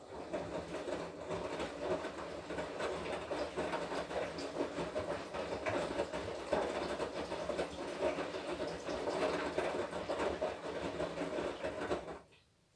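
Washing machine drum turning during the wash cycle: the motor runs with a steady hum and rattling, starting abruptly and stopping about twelve seconds in.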